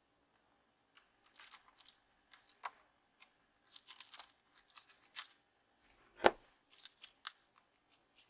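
Small sharp clicks and scrapes of hobby work on resin parts and tools at a workbench, in irregular clusters, with one louder knock about six seconds in.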